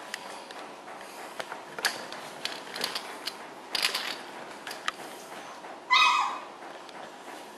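Bullmastiff puppies scuffling, with scattered clicks and knocks of paws and claws, then one short, high yelp about six seconds in.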